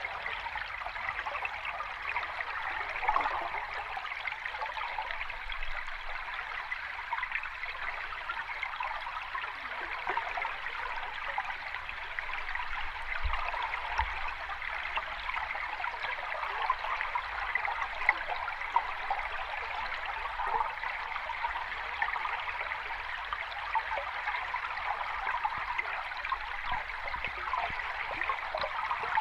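Water running in a small cascade: a steady babbling splash, bright rather than deep, with no let-up.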